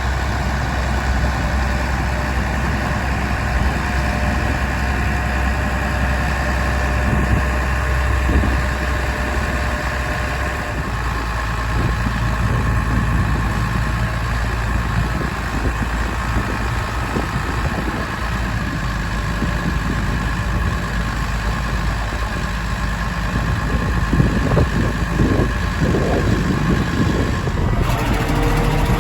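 Massey Ferguson 6465 tractor's six-cylinder diesel engine running steadily at idle. About ten seconds in, its low hum steps up to a higher pitch and holds there, as the engine speed is raised.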